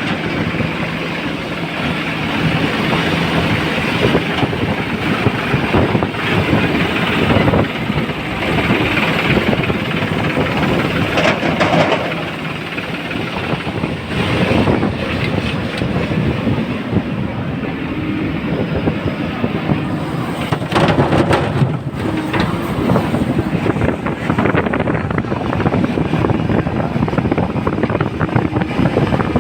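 Heavy diesel machinery running and working under load: a continuous clattering rumble, with a few louder knocks or clanks in the middle.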